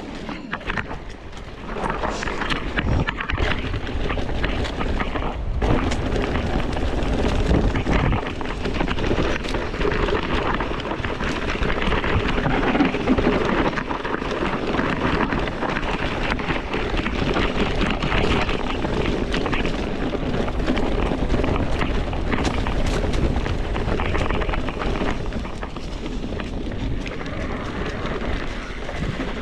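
Wind rushing over the microphone of a bike riding a rough singletrack trail, with tyre noise on dirt and frequent rattles and knocks from the bike.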